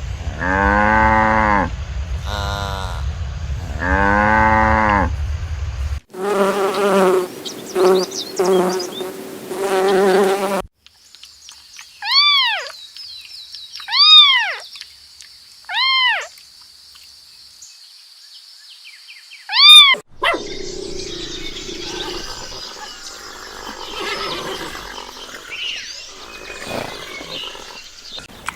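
A string of different animal calls cut one after another: two long pitched calls, a quick run of shorter calls, then four short, high, arching cries, followed by rustling noise.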